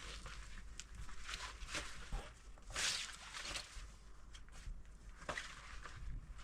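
Scattered footsteps and rustling, with a louder rustling scuff about three seconds in.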